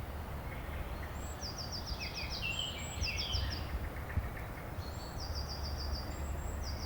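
Small birds singing: several quick trilled phrases of rapid high notes, each opened by a higher slurred note. Under them runs a low steady rumble.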